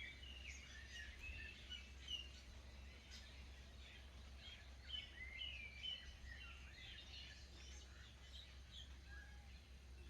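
Faint birdsong: many short chirps and warbling phrases from wild birds, with a steady low background hum.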